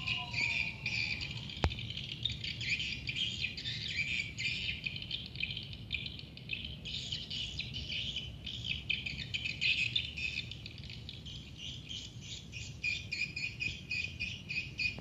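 Swiftlets twittering: a dense, continuous chatter of rapid high chirps, with one sharp click about two seconds in.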